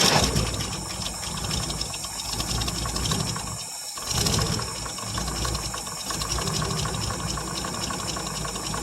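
1959 International B120 pickup's engine running on gasoline poured straight into the carburetor, after years without being started. It falters briefly about four seconds in, then picks back up.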